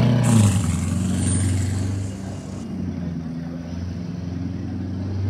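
Lamborghini Urus Mansory's twin-turbo V8 pulling away. Loudest at first, its pitch drops about half a second in, then it settles into a steady low rumble as the SUV moves off.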